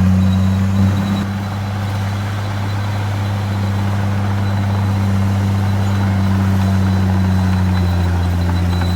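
Heavy diesel engine of earthmoving machinery running steadily at constant speed, a deep even drone.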